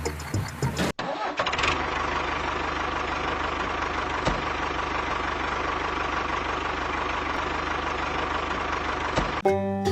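An engine running steadily at idle, with a rapid even low pulsing. Music plays briefly at the start and comes back just before the end.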